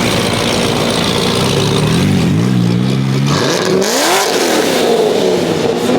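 Car engine running loudly, then revving up sharply a little past halfway and dropping back down.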